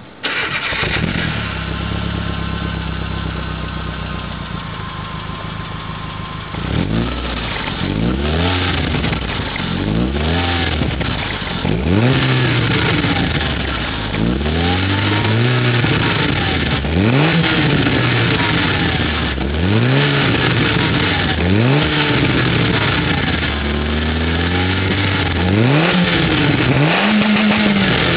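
Peugeot 306's 1.6-litre four-cylinder petrol engine starting up and idling steadily for about six seconds, then being revved over and over, each rev climbing and dropping back to idle, roughly every two seconds.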